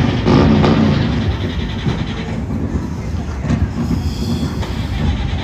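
Loud, rough motor-vehicle engine noise, mostly low-pitched, with scattered clicks through it.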